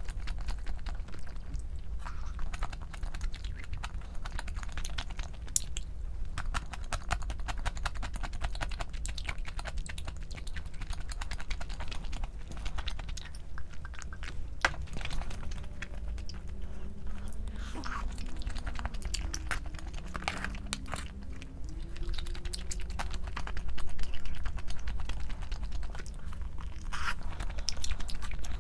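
A person eating close to the microphone: chewing and crunching food, with a steady stream of small sharp clicks and mouth sounds.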